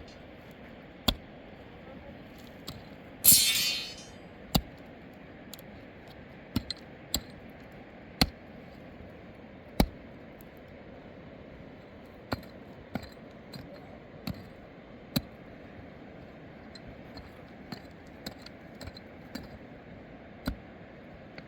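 A series of sharp, irregular clinks and knocks of small hard objects, one every second or two, with one brief loud rushing, hissing noise about three seconds in.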